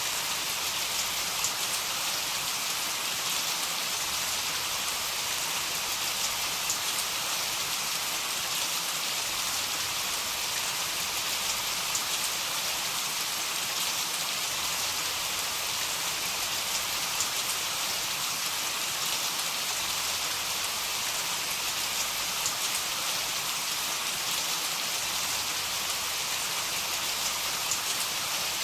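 Heavy rain falling steadily, a dense even hiss with the odd sharper drop tick; no thunder.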